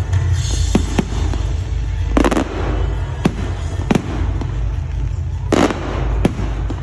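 Fireworks display: aerial shells bursting in an irregular series of sharp bangs, two heavier, longer booms about two seconds in and near the end, over a steady low rumble.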